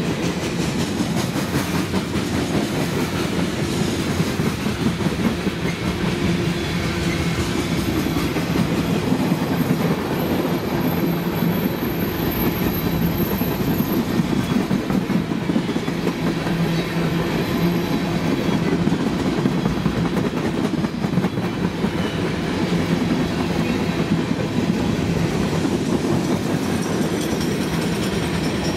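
Freight cars of a passing manifest train rolling by at steady speed: a continuous rumble of steel wheels on the rails, with clickety-clack as the wheels cross rail joints. A faint high-pitched whine comes and goes around the middle.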